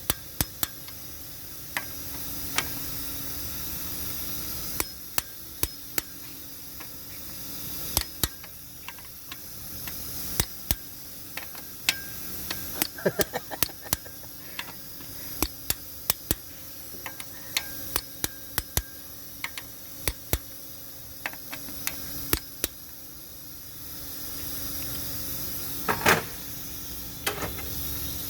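Hand tools clinking and knocking against metal engine parts during cylinder head installation: irregular sharp clicks, with a quick cluster about halfway through and a louder knock near the end, over a faint steady hiss.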